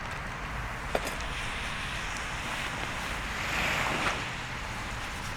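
Surf washing on the shore with wind buffeting the microphone, the wave noise swelling briefly past the middle. A single sharp snap about a second in.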